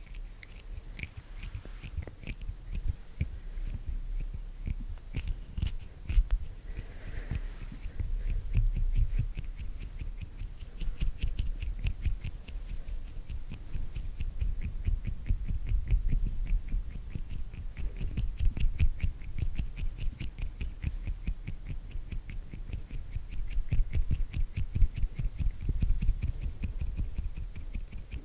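Hand sounds close to a microphone: a continuous run of rapid, soft clicks and pats from fingers and palms moving, over low thumps of handling.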